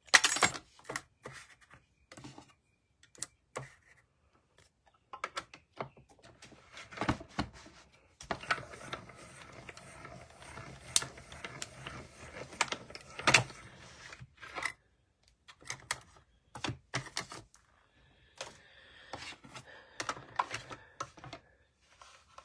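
Irregular clicks, taps and paper rustling from cardstock and small craft tools being handled on a work desk, with a few seconds of steady rustling or rubbing around the middle.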